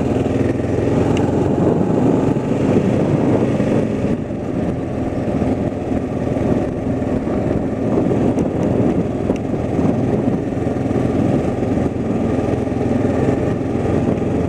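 Engine running steadily at idle, a low, even rumble with no change in pace.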